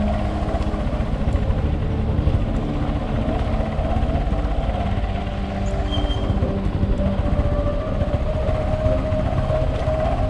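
A vehicle engine running with a steady low rumble, its held engine tones shifting in pitch partway through.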